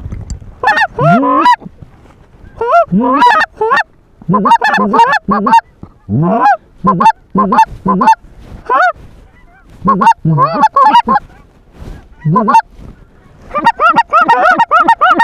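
Loud goose honks and clucks in quick bursts of a few calls each, thickening into a rapid run near the end: lesser Canada goose calling as a flock works in toward the decoys.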